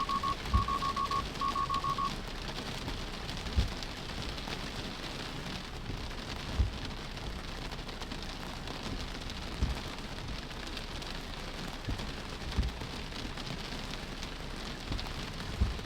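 Heavy rain on a car, a steady hiss heard from inside the cabin, with dull low thumps every few seconds. During the first two seconds a Tesla's alert beeps rapidly in groups of four: the Full Self-Driving take-over-immediately warning, set off by the downpour.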